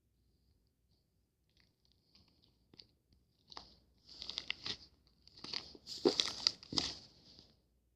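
Close-up crunching and crinkling in several bursts over the second half, loudest about six seconds in.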